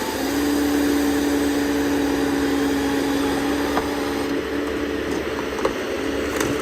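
Ponsse forestry harvester at work, its head's hydraulic chain saw cutting through a tree trunk over the machine's engine. It makes a loud, steady two-tone hum that shifts lower about four seconds in, with a few sharp cracks in the second half.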